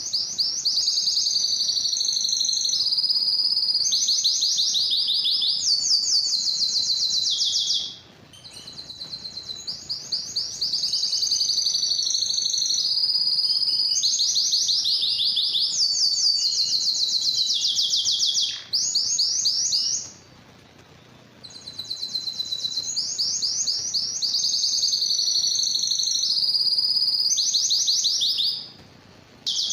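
Domestic canary singing long, high-pitched song phrases made of rapid trills and rolls, each run several seconds long, with brief pauses about a quarter of the way in, two-thirds of the way in and near the end.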